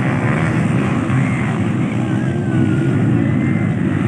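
Motocross dirt bike engines revving over a steady low rumble, their pitch sliding up and down.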